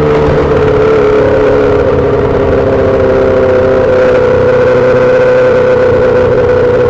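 2008 Yamaha R6 inline-four through a full SC-Project exhaust, running loud at steady revs with only slight wavering in pitch.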